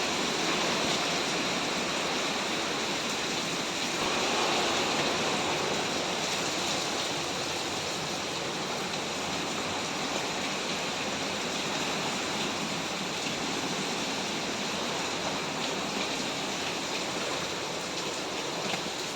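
Hurricane-force wind and driving rain: a steady rushing noise that swells a little about four seconds in.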